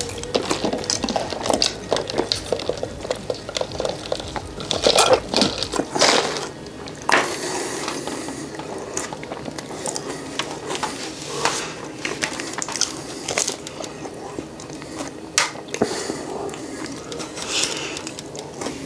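Close-miked chewing of a waffle cone with a creamy cheesecake and cookie-dough filling: crisp crunches and wet mouth clicks, with a fresh bite into the cone near the end.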